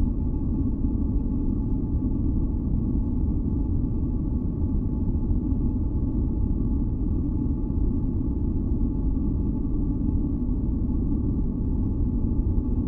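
Steady, unchanging masking noise for sleep, weighted heavily toward the low end like brown noise, with a few faint high tones held steady over it.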